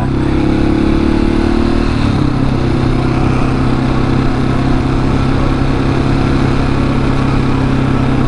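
Husqvarna 701 supermoto's single-cylinder engine running at steady revs under way, with wind noise on the microphone. The engine note shifts once about two seconds in, then holds steady.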